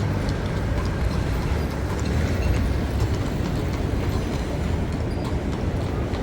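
Steady low rumble of heavy city traffic, with a continuous engine drone and an even wash of road noise.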